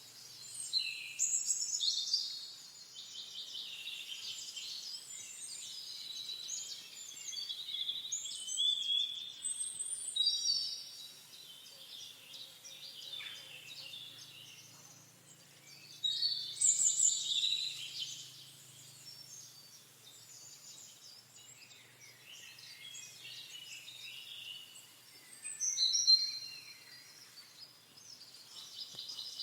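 Songbirds singing, quick chirped and warbled phrases overlapping one another without pause, with several louder bursts of song.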